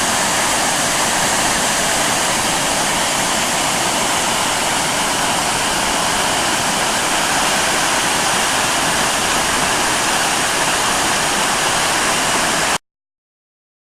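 Apsley Falls in flood flow: a steady, absolutely thundering rush of water pouring down the gorge. It cuts off suddenly near the end.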